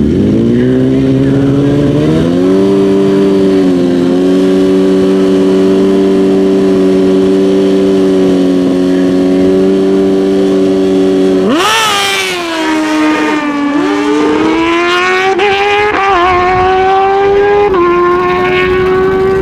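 Naturally aspirated Super Stock drag motorcycles holding their engines at steady revs on the starting line. About eleven seconds in they launch, and the engine note jumps up and climbs, dropping back briefly at each upshift as the bikes accelerate down the strip.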